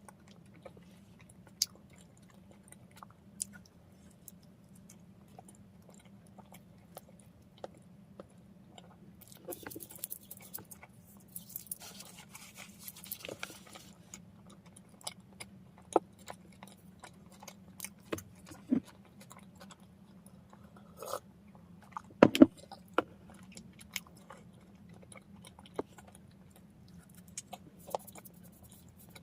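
A person chewing bread close to the microphone, with scattered small mouth clicks and taps. There is a brief rustling stretch about ten seconds in, a couple of sharper clicks a little past twenty seconds, and a low steady hum underneath.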